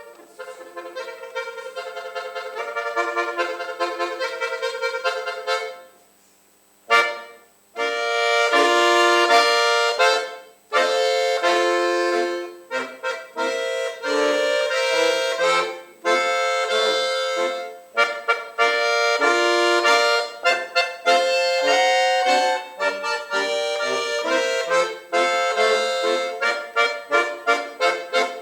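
Solo accordion playing. It starts softly from silence and breaks off about six seconds in, then comes back loud with a sharp attack. It goes on in full, detached phrases with short pauses between them.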